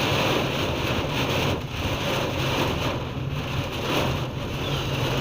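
Heavy rain pouring down steadily and loudly, with a steady low hum underneath.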